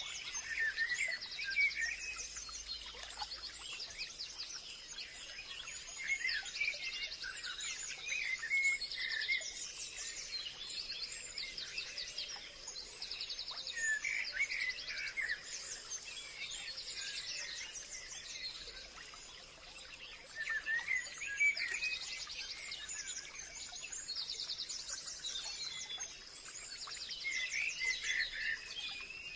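Forest songbirds chirping and trilling, with overlapping calls and rapid trills coming every second or two over a faint steady high hiss.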